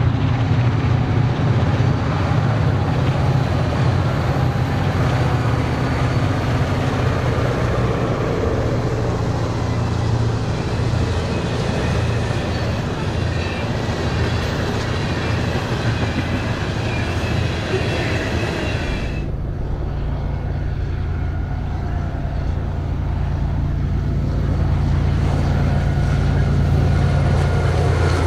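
Freight train passing at close range: the BNSF diesel locomotives go by, then the steel hopper cars rumble past on the rails. About two-thirds of the way through, the sound cuts to the steady low drone of Ferromex diesel locomotives leading an approaching freight train.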